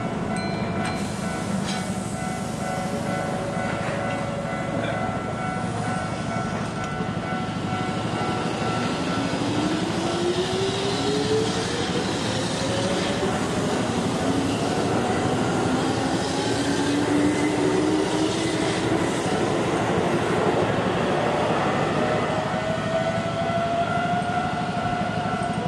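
Electric train pulling away, its motor whine rising steadily in pitch as it gathers speed over the running noise of the cars.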